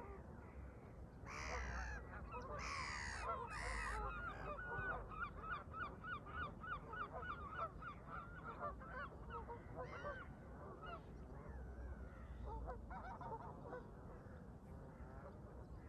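Canada geese honking: a loud cluster of calls a second or so in, then a fast run of short honks, about four a second, that thins out toward the end.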